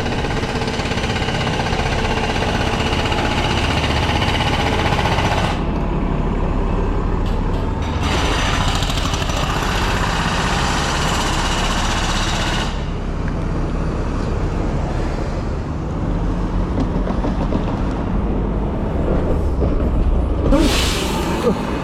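A city bus running close by, with a steady low rumble and long stretches of hiss. Near the end comes a short, sharp burst of air-brake hiss, right in the ear.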